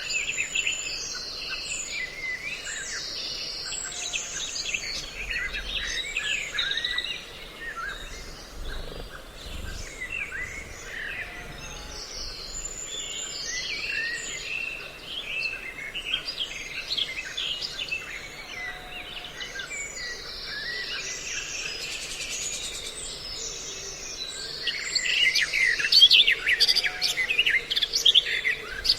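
A dense mix of many songbirds chirping and calling over one another in quick, overlapping notes, busiest and loudest near the end. It is a mixed bird-call lure recording for trapping.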